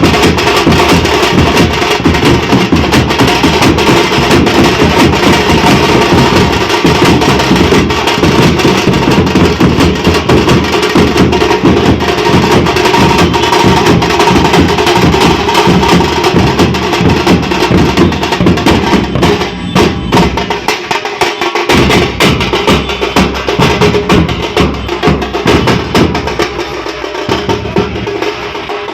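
Drums played loud and fast, a dense unbroken stream of sharp strokes; the deep strokes drop out briefly about two-thirds of the way through.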